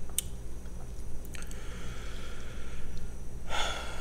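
Eating sounds: soft chewing and a few sharp mouth clicks, with a breathy hiss through the middle and a louder breath just before the end, over a steady low hum.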